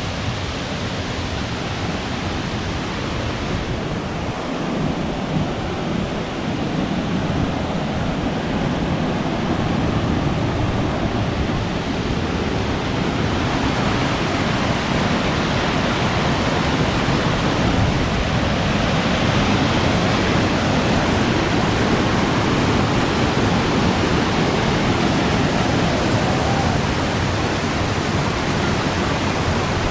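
Waterfall: a steady, loud rush of falling water, growing a little louder after the first few seconds.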